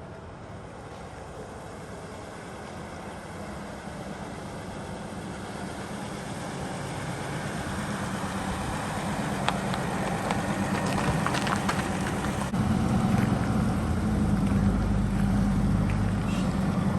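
Toyota FJ45 Land Cruiser driving, its engine and tyre noise growing steadily louder as it comes closer, with a jump in level about twelve seconds in and scattered crackles around the middle.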